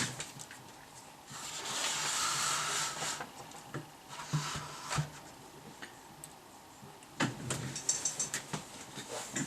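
Workbench handling sounds: scattered clicks and small knocks, with a hissing rush of noise lasting about two seconds shortly after the start, and a quick run of clicks near the end.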